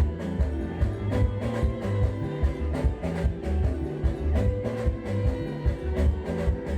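Congolese band playing live: electric guitar, bass and drum kit with a steady, even beat and a heavy bass line.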